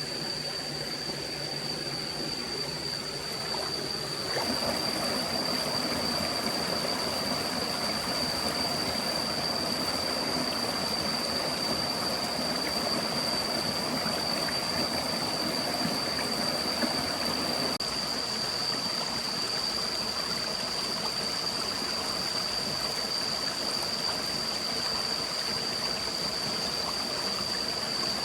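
Forest stream running steadily, with a thin, steady high-pitched tone over the water throughout. The water grows a little louder and fuller about four seconds in, then thins again after about eighteen seconds.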